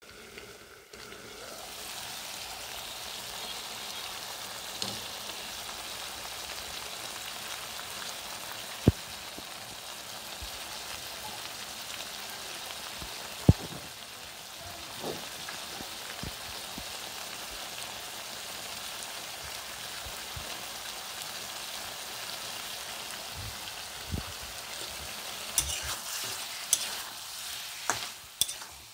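Diced potatoes in spiced gravy sizzling in a metal kadai, a steady frying hiss, with two sharp knocks partway through. Near the end a metal spatula scrapes and clacks against the pan as the potatoes are stirred.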